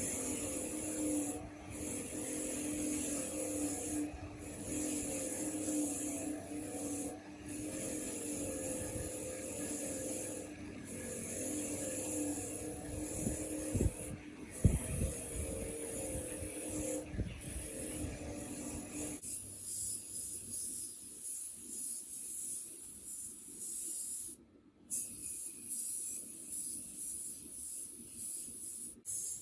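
Steady rubbing and scraping of a part being worked by a tool, over a constant motor hum. The hum drops out abruptly about two-thirds of the way through, leaving a thinner hissing scrape.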